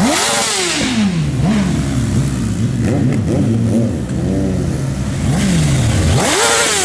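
Sport motorcycle engine revved hard in repeated throttle blips, its pitch climbing and falling. There is a big rev just after the start, smaller blips through the middle and another big rev near the end.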